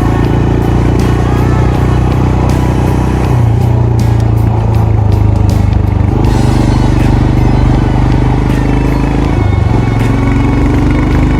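Royal Enfield Himalayan's single-cylinder engine and exhaust running under way, a steady thump whose pitch shifts a few times and climbs near the end.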